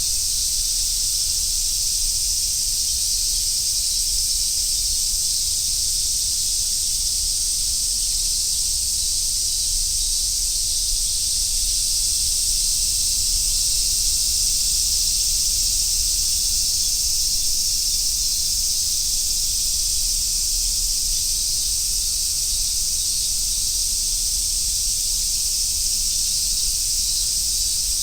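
Chorus of summer cicadas, a steady, dense high-pitched buzz that does not let up.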